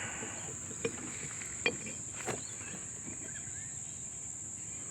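Steady high-pitched chirring of crickets, with a few light clicks and knocks in the first half as a greased brake caliper piston is handled and pushed into its bore.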